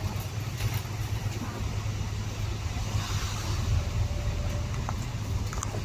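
Car driving, a steady low rumble with a haze of road noise.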